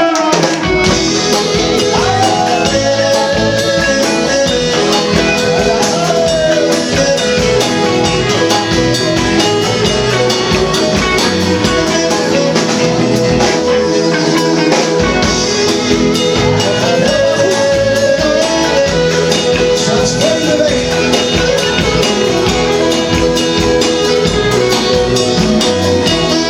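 Live band playing an instrumental passage, electric guitar over a drum kit with a steady beat.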